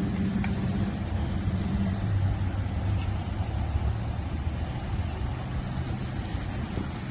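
Steady drone of a car engine with road noise, a low steady hum underneath a noisy rush.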